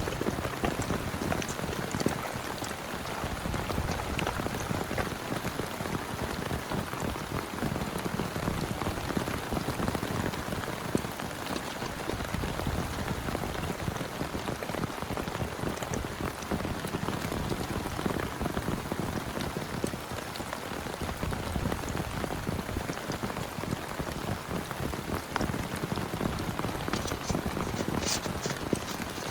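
Heavy rain falling steadily, with many individual drops ticking on a surface and a few sharper drip ticks near the end.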